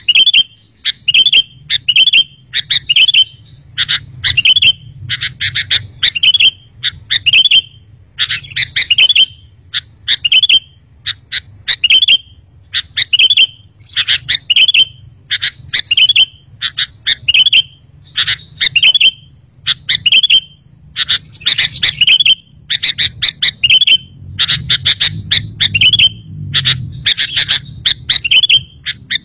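Sooty-headed bulbul calling over and over, a short chirping phrase about once a second, over a faint low hum.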